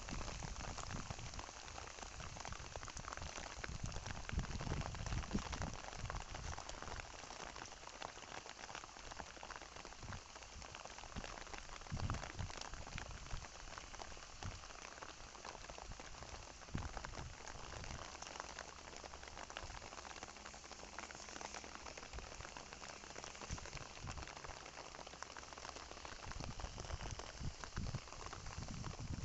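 Heavy rain falling steadily, a dense even hiss of drops, with scattered low thumps now and then.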